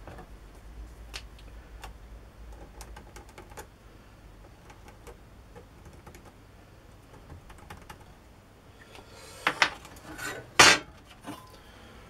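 Small metal tools and workpiece clicking and tapping on a workbench while hole positions are marked out on a steel try-square blade. Light scattered ticks come first, then a few louder sharp knocks near the end.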